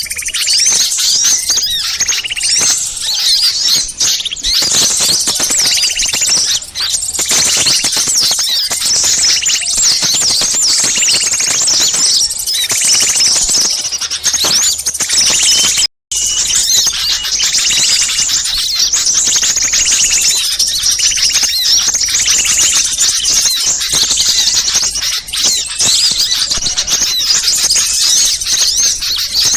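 A noisy chorus of many small birds giving rapid, high-pitched chirps and twitters, the agitated 'ribut' calls used to lure wild small birds in. The sound cuts out for a split second about halfway through.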